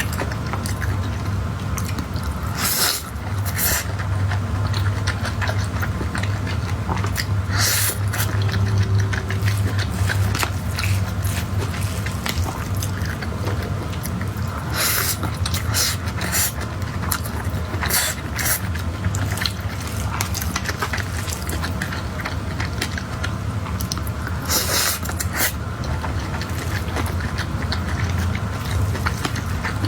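Close-miked chewing and wet mouth sounds of someone eating, with a handful of sharper bite or smack sounds spread through, over a steady low hum.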